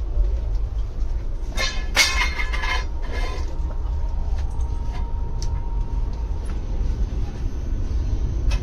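Steady low rumble of a moving express train heard inside an ICF passenger coach, with a burst of metallic clattering and clinking about two seconds in.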